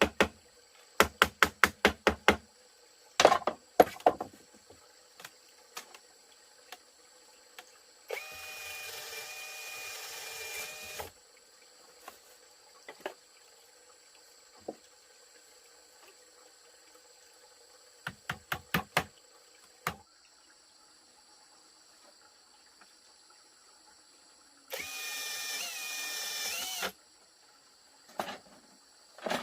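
A power drill running in two steady bursts of about three seconds each, one about a third of the way in and one near the end, its whine rising briefly at the end of the second. Quick runs of sharp knocks come between them, and a faint steady high chirr, like insects, lies underneath.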